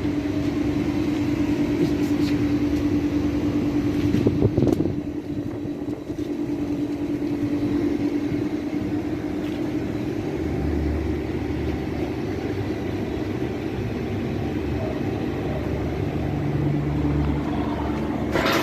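A steady machine hum with a constant low tone, and a deeper rumble that swells about ten seconds in and again near the end. A couple of brief knocks, one near the end.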